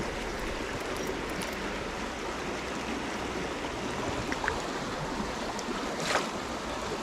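Steady rush of flowing stream water, with a brief sharper sound about six seconds in.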